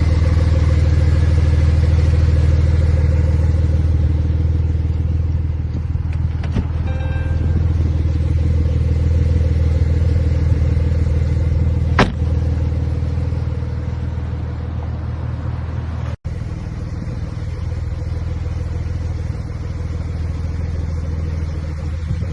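A car engine running at a steady speed, a deep low drone. There is one sharp click a little past halfway and a brief break about three-quarters of the way through.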